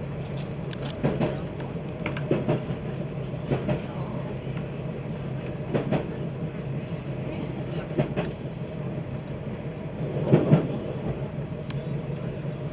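Passenger train running along the line, heard from inside the carriage: a steady rolling rumble with sharp clacks every second or two, often in close pairs, as the wheels pass over rail joints.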